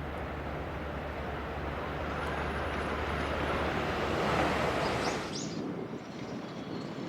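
681-series Thunderbird limited express electric train passing at high speed, a steady rush of wheel and wind noise that swells to its loudest about four seconds in. The noise drops away abruptly a little after five seconds, with a couple of brief high squeals, leaving quieter station ambience.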